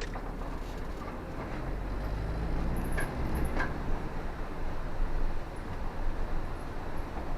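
Car driving on a rainy road: a steady low rumble of engine and tyres that swells between about two and four seconds in, with two short squeaks near the middle.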